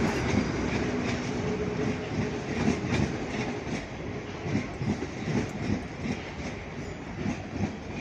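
Class 350 electric multiple unit pulling out of the station: a steady hum at first, then the wheels clacking irregularly over rail joints and pointwork, slowly fading as it draws away.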